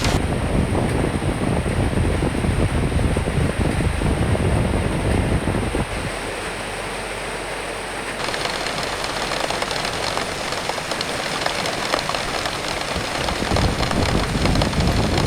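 Rain falling steadily under gusting wind. Strong low gusts fill the first six seconds or so, ease off, then build again near the end.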